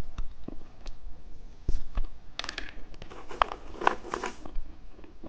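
Plastic candy wrapper being torn open and crinkled by hand, a run of crackling rustles with small clicks, busiest around the middle of the stretch.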